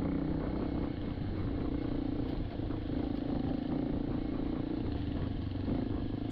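Motorcycle engine running at a steady pitch, riding uphill on a rough dirt road.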